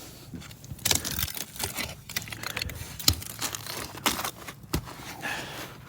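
Crunching and crackling of frozen snow and ice, in sharp crunches about once a second over a faint crackly background.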